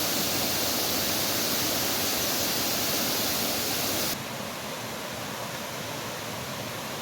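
Steady rushing of a waterfall's falling water. It drops suddenly to a quieter level about four seconds in.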